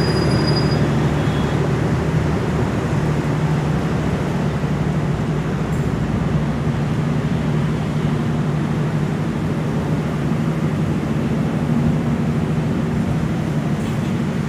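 Passenger train coaches rolling slowly past the platform: a steady low rumble with a constant low hum. There is a brief thin high squeal in the first second.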